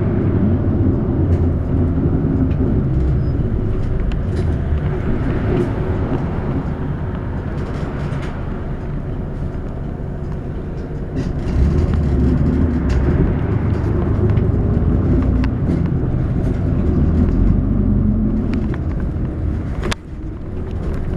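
Inside a city route bus: the engine runs with road noise as the bus approaches its terminal stop, with scattered clicks and rattles. The engine grows a little louder about halfway through. A sharp click comes near the end, with a brief drop in the sound.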